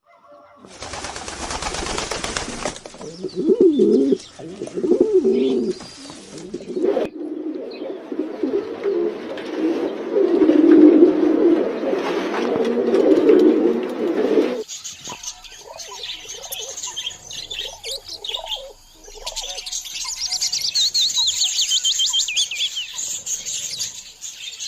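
Birds in an aviary: low, wavering cooing calls for the first half, then high chirping and twittering of small birds in the second half.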